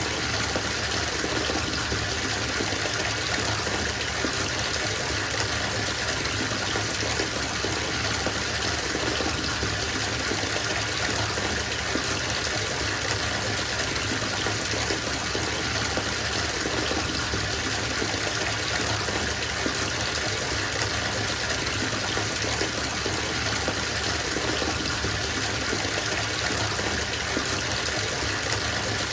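Bathtub filling from its tap: a steady stream of water gushing into the tub.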